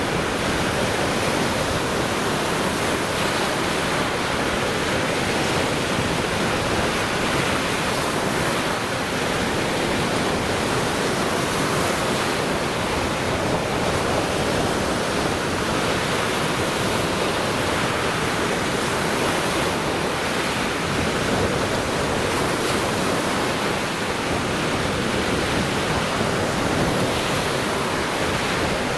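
Lake Michigan waves breaking on the shore: a steady, unbroken wash of surf with no distinct single swells.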